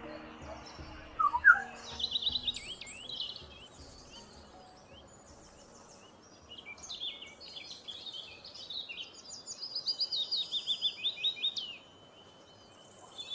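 Songbird singing: bursts of quick, high chirps and fast runs of repeated notes. The loudest run comes about ten seconds in. Background music fades out in the first two seconds.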